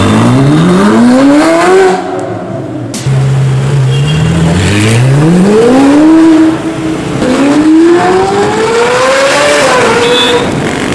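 Ferrari 458 Italia's 4.5-litre V8 breathing through an iPE straight-pipe exhaust, very loud, accelerating hard. The engine note climbs steeply three times, with quick drops between the pulls. In the middle it briefly holds a steady note before rising again.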